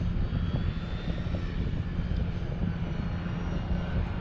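Gusty wind buffeting the microphone, with the thin, faint whine of a Durafly Tundra RC plane's electric motor flying overhead.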